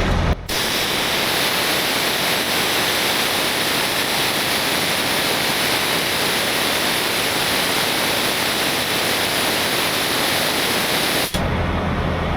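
Compressed air hissing out of a heavy truck's air system through an opened fitting at the air dryer's pop-off valve, very loud and steady, cutting off suddenly near the end.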